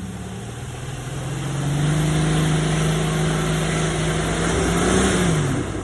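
Jeep engine revving hard under load while the Jeep drives at a rutted climb. The engine note rises over the first second or two, holds high for about three seconds, then falls away near the end as the throttle comes off.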